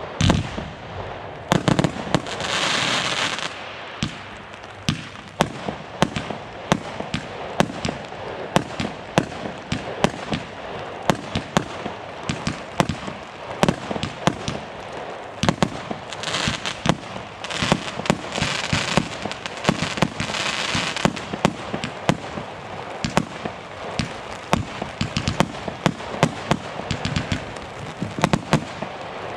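Consumer firework battery going off: a rapid run of bangs, several a second throughout, with stretches of hissing about two seconds in and again past the middle.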